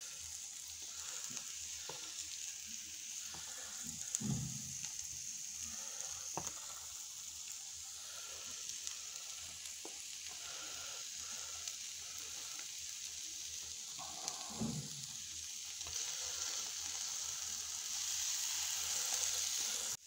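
Chopped Chinese sausage sizzling and frying on a hot metal locker top heated by a hotplate underneath, a steady sizzle that grows a little louder near the end. A few knocks and scrapes of a wooden stirring stick on the metal.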